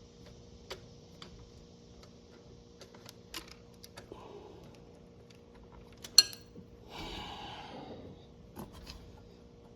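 Hand tools and small metal brake parts being handled: scattered light clicks and taps, one sharp loud click about six seconds in, then a brief scraping rustle.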